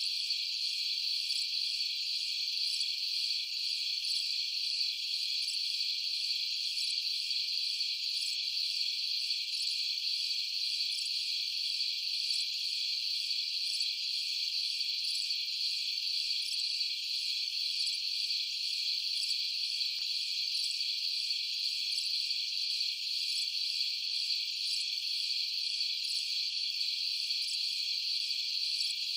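A steady chorus of crickets at night: a dense, high-pitched, unbroken trill.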